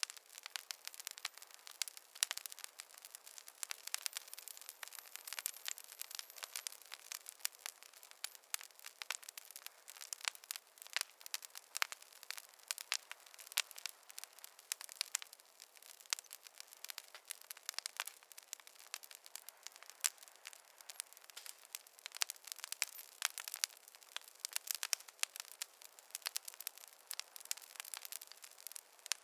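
Campfire burning, its wood crackling and popping in a dense, irregular stream of small sharp snaps.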